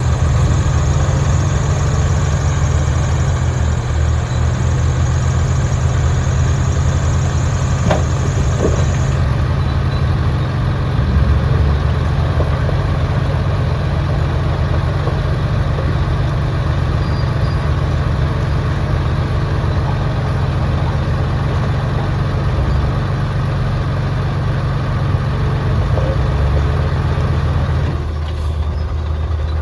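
Bulldozer's diesel engine running steadily under load, a deep, even drone with a few faint knocks. Near the end the sound changes and drops a little.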